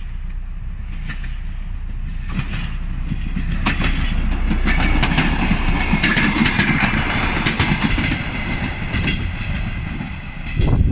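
A train passing along the track, running with a steady rumble and its wheels clicking over the rail joints. It grows louder about four seconds in.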